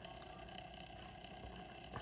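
Faint steady low hum of room tone, with no distinct sound event.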